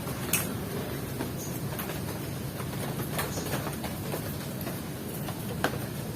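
Steady rain hiss with a low rumble underneath and a scattering of sharp drips or taps, the clearest about half a second in and near the end.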